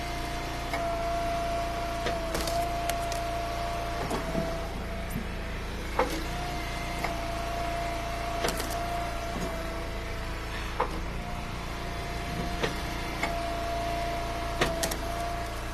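Hydraulic log splitter running steadily, its pump whine holding and breaking off several times as it cycles through splits. Split pieces of firewood knock and clatter now and then over the top.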